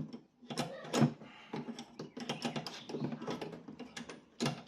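Hand tools clicking and knocking irregularly against metal as a nut on the rear shock mounting is worked loose, with the sharpest knock about a second in.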